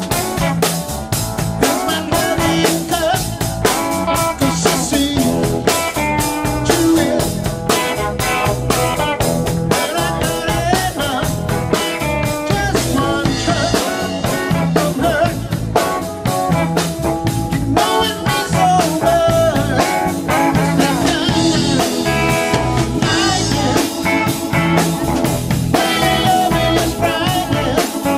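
Live band playing a blues-rock song with drum kit, guitar and bass.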